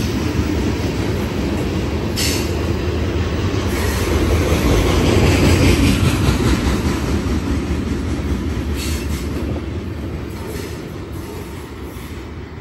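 New York & Atlantic freight train of tank cars and hopper cars rolling past: a steady rumble of steel wheels on the rails, with a couple of brief high screeches. It swells about halfway through, then fades as the end of the train draws away.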